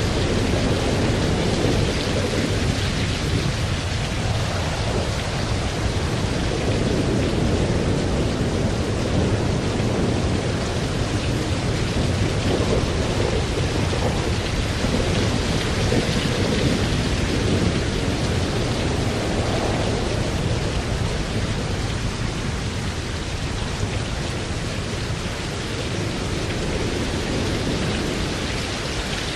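Thunderstorm: steady heavy rain with thunder rolling underneath, swelling and fading several times.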